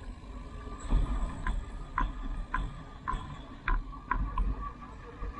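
Light, regular ticks about two a second from a bicycle rolling slowly downhill, over a low rumble of wind on the microphone.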